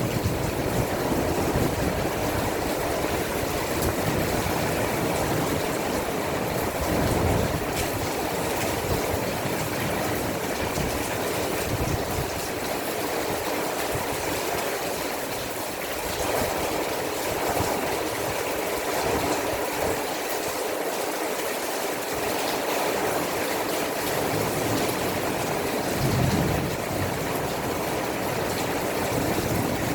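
Heavy rainstorm: a steady downpour hissing evenly, with a low rumble swelling briefly about seven seconds in and again near the end.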